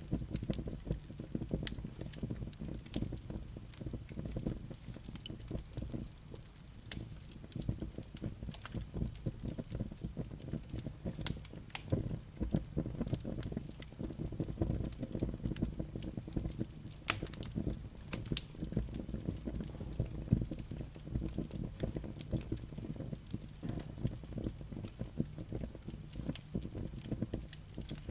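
Firewood burning in a fireplace: a steady low rumble of flames with frequent sharp crackles and pops from the embers, scattered at irregular intervals.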